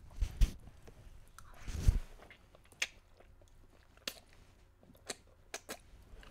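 Close-up mouth sounds of eating creamy Cajun chicken pasta: chewing with sharp, wet smacks and clicks every second or so. Two low thumps come in the first two seconds.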